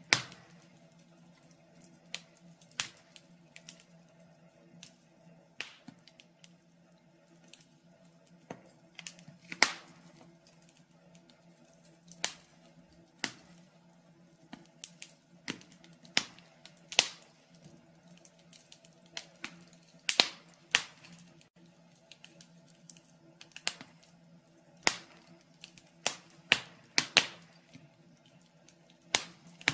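Wood fire burning in a fireplace: irregular crackles and sharp pops of the burning logs, some much louder than others, over a low steady hum.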